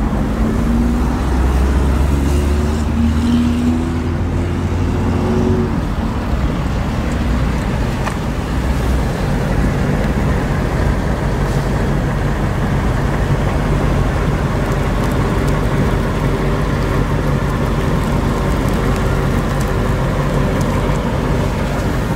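Steady low rumble of motor vehicles running, with a pitched drone that rises and falls during the first few seconds and a steadier hum later on.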